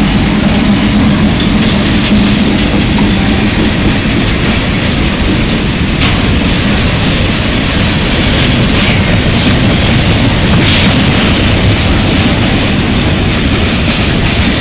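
Freight train passing close by. The engine hum of the last trailing diesel locomotive fades over the first few seconds, then covered hopper cars roll past with a loud, steady rolling noise of steel wheels on the rails.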